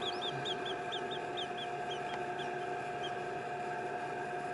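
Newly hatched chicks peeping, a quick run of short high peeps that thins out and stops about three seconds in, over a steady electrical hum.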